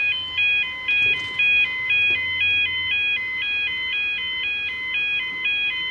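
British level crossing warning alarm (yodel alarm) sounding a high two-pitch warble that alternates about twice a second, while the crossing barriers lower.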